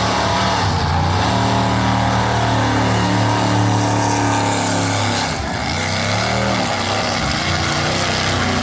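Racing vehicle engine running hard on the drag strip; its pitch dips briefly about five seconds in and climbs again.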